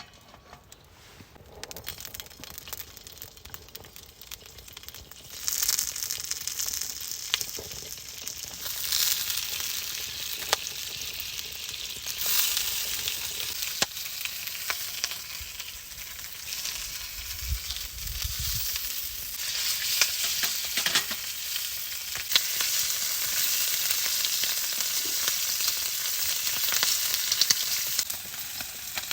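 Food frying in a pan, sizzling. The sizzle starts about five seconds in and grows louder in steps, with a few light clicks.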